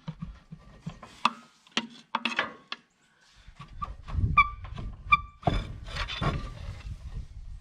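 Metal knocks and clinks, then from about halfway a low scraping rumble with a couple of short ringing metallic pings, as a rusted-on rear dual wheel is worked off its hub.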